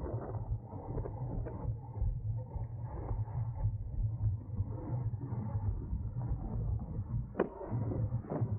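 Low wind rumble and road noise from a road bike moving at race speed, with creaks and rattles from the bike and one sharp click about seven seconds in.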